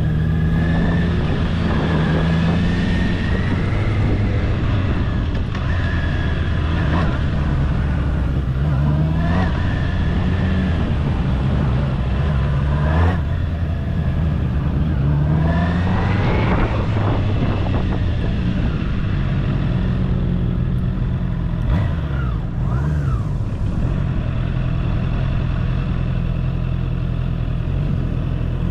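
Honda CB650R's inline-four engine running at low speed, its revs rising and falling again and again as throttle is opened and closed.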